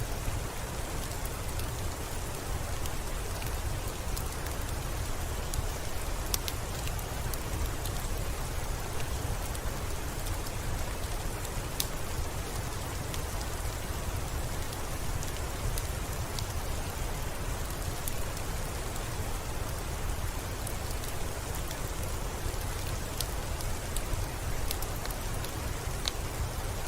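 Steady rain falling, with scattered sharp crackles from a wood fire.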